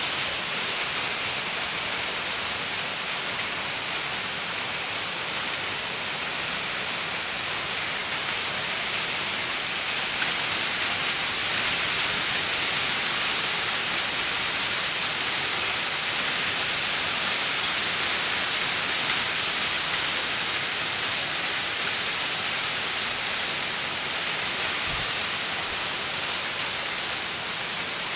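Heavy rain pouring down steadily in a thunderstorm downpour, an even, unbroken hiss.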